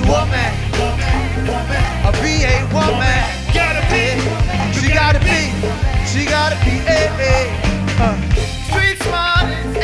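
Live go-go band playing: a heavy, steady bass line under a wavering lead melody with vibrato.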